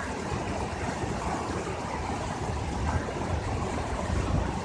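Steady rushing water of a waterfall, with an uneven low rumble underneath.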